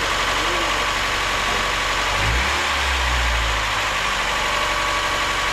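Mazda Miata 1.8-litre four-cylinder, freshly rebuilt, idling steadily shortly after its first start, with the ignition timing still to be adjusted. A short low rumble comes about two seconds in.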